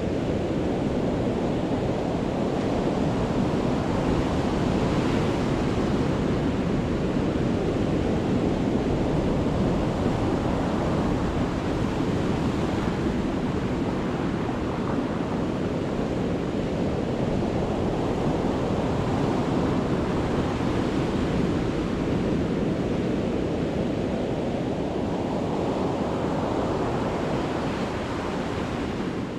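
Sea waves breaking and washing up the beach in a steady rush of surf that swells and eases every few seconds, at high tide.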